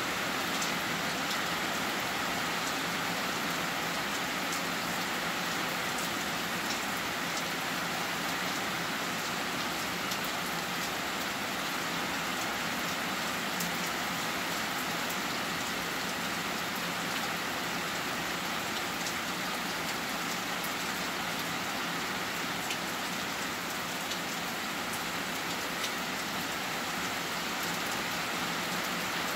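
Heavy rain falling steadily, an even hiss with scattered sharper drop taps.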